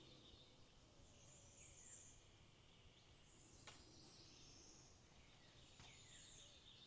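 Near silence with faint birdsong, high short chirps and a few down-slurred calls, and a couple of soft clicks.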